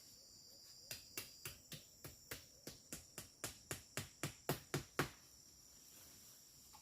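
Steady high chirring of crickets and other insects in the forest. Over it comes a run of about sixteen sharp knocks, about four a second, growing louder before stopping abruptly.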